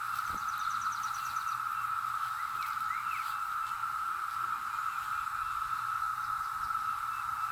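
Dense chorus of periodical cicadas: a loud, steady, unbroken drone at one high pitch, thousands of males calling together.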